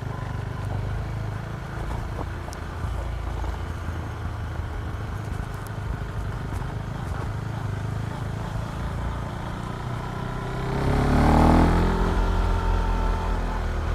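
KTM Duke 390's single-cylinder engine running steadily at low revs, then revving up about ten seconds in, with the pitch rising and peaking in loudness shortly after before holding at higher revs.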